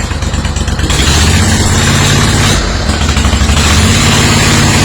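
Kohler Command 25 V-twin engine on a zero-turn mower running steadily, getting louder about a second in. It runs smoothly on both cylinders after new ignition coils and a stator fixed its one-cylinder running.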